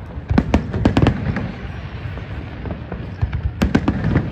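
Fireworks exploding: a quick run of sharp bangs in the first second and a half and another cluster near the end, over a steady low rumble.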